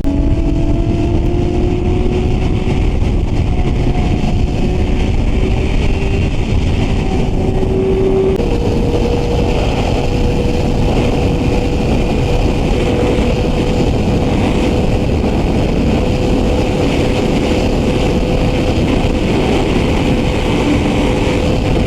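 Yamaha R6 inline-four sportbike engine running at a steady road speed under heavy wind rush on the microphone. The engine note climbs slowly, steps up in pitch about eight seconds in, and then holds steady.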